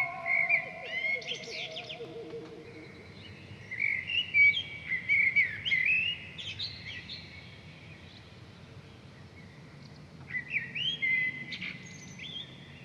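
Birds chirping and trilling in three bursts of quick calls: about a second in, again from about four to seven seconds in, and once more near the end. A held musical note slides down and fades out in the first two seconds.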